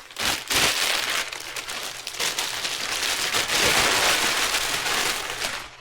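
Rummaging through the new axle's packaging, with plastic and paper crinkling and rustling in a continuous crackle.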